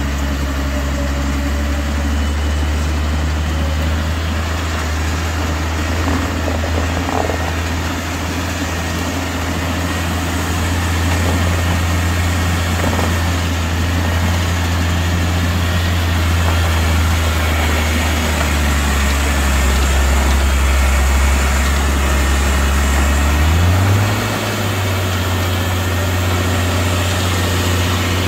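A vehicle engine running with a steady low hum. About 24 seconds in, its pitch steps up and then holds at the higher speed.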